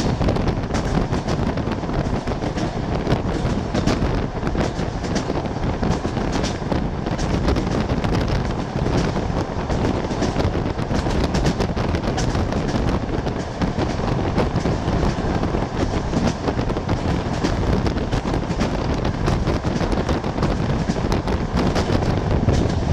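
Moving passenger train heard from on board: a steady low rumble with dense, rapid rattling and clattering.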